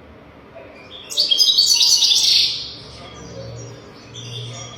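European goldfinch song: a loud, rapid burst of twittering notes about a second in that lasts over a second, followed by softer scattered chirps.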